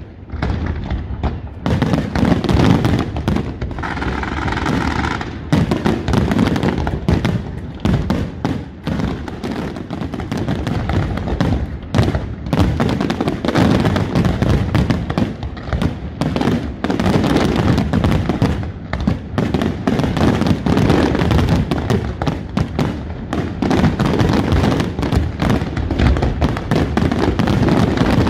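Aerial fireworks shells bursting in a dense, continuous barrage, with sharp reports following one another several times a second and crackle in between.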